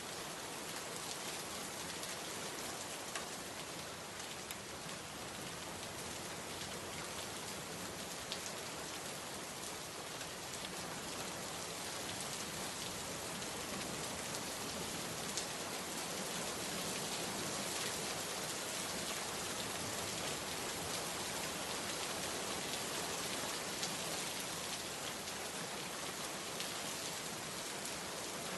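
Steady heavy rain falling on a surface, a dense even hiss of drops with occasional sharper individual drop ticks.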